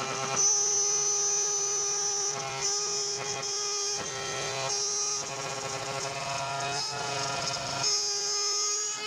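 A small power tool's electric motor running with a steady, high-pitched whine, its higher tones cutting in and out every second or so.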